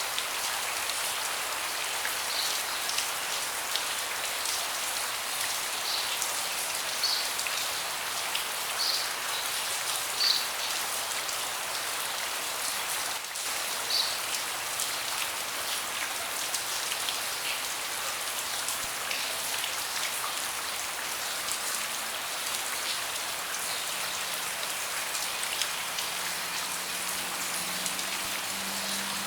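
Steady rain falling on a deck, a constant hiss with separate louder drops landing close by at irregular moments.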